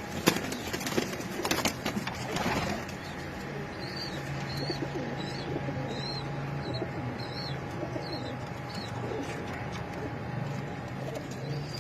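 Domestic pigeons cooing in low tones, with a small bird chirping about twice a second in the background. There are a few sharp knocks in the first two seconds.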